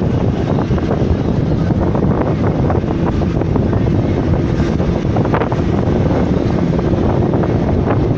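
Steady low rumble of a moving vehicle, with wind buffeting the microphone and a few brief rattles, the loudest about five seconds in.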